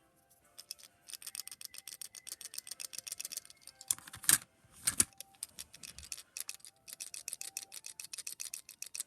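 A rapid run of small clicks, several a second, with two louder knocks a little past the middle.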